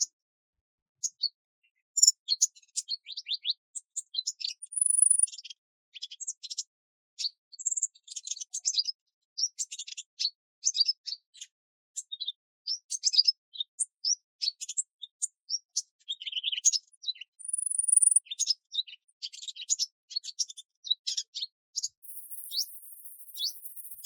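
Small songbirds chirping and twittering in quick runs of short high notes, with a longer, thin, very high note twice. A steady high hiss joins near the end.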